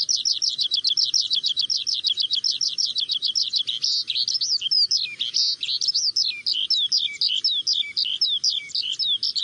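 Bird song: a long, unbroken run of rapid high chirps that turns to slurred, downward notes about halfway through.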